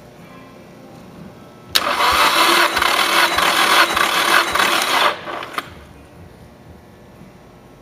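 Nissan SR20DET engine cranked over on its starter motor for about three seconds for a compression test, starting and stopping abruptly, with a short click just after it stops.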